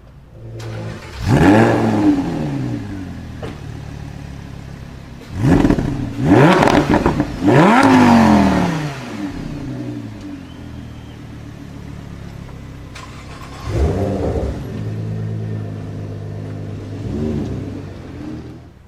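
Sports-car engine revved in sharp throttle blips, the pitch shooting up and falling back: once about a second in, three times in quick succession from about five to eight seconds in, then twice more near the end. Between the blips it runs at a steady lower note.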